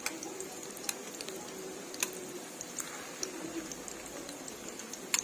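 Chicken-and-carrot patties shallow-frying in hot oil in a pan: a steady sizzle with scattered sharp pops of spattering oil, the loudest near the end.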